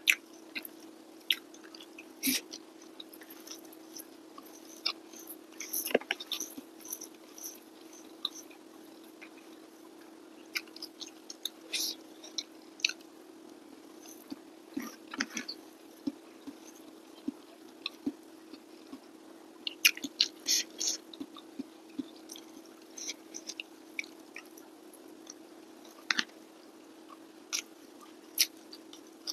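Close-up sounds of a person chewing and biting a mouthful of rice and steamed fish: scattered, irregular wet mouth clicks and smacks, busiest about two-thirds of the way through. A steady hum runs underneath.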